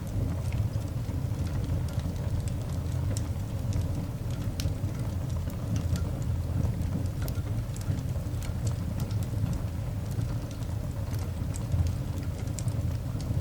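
Coal fire burning in a cast iron dog grate: scattered sharp crackles and pops over a steady low rumble.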